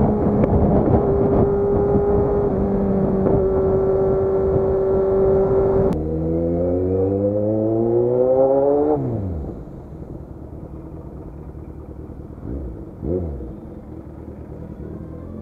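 Kawasaki Z900 inline-four motorcycle engine heard from the rider's seat: at first a steady high-speed cruise under heavy wind rush, then about six seconds in the revs climb steadily for about three seconds under hard acceleration before the throttle shuts and they drop. Near the end, two short throttle blips while filtering through slow traffic.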